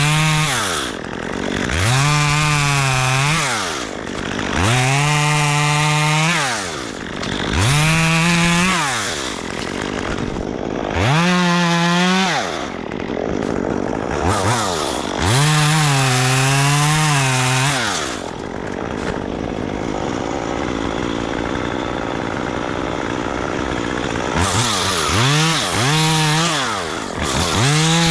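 Chainsaw cutting wood in repeated bursts: the engine revs up, holds high through each cut and drops back to idle, about every three seconds. It idles for several seconds in the middle, then gives three quick short revs near the end.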